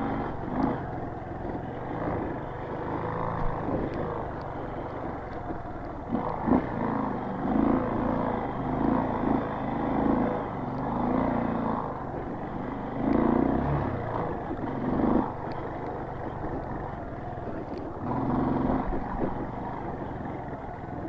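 Street-legal trail motorcycle's engine running at low speed over rough ground, the throttle opening and closing so the sound swells and dips every second or two, with a few sharp knocks along the way.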